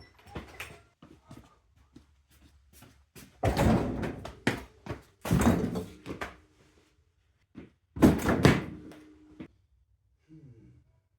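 A series of knocks and thuds with three louder bangs and scrapes, each about a second long, heard in a small room.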